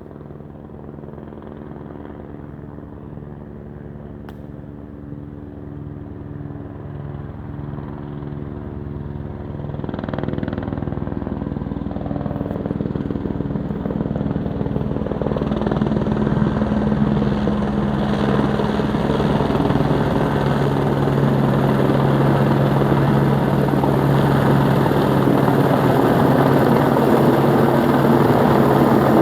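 Helicopter approaching, its pulsing rotor beat and engine growing steadily louder throughout.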